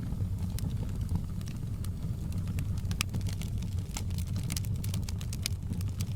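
Wood fire burning in a fireplace, close up: a steady low rumble of the flames with frequent sharp crackles and pops, which come thicker in the second half.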